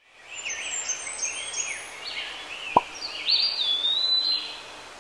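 Birds calling: a run of short, high chirping notes that glide in pitch, over a faint outdoor hiss, with a single sharp click about three seconds in.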